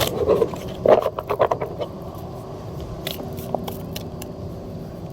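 Tarot cards being shuffled by hand: a quick run of papery flicks and scrapes for about the first two seconds, then a few isolated card clicks over a steady low background hum.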